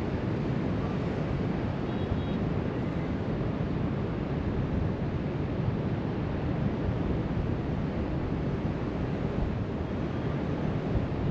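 Steady wash of surf breaking along a beach, heard from high up, mixed with wind rumbling on the microphone.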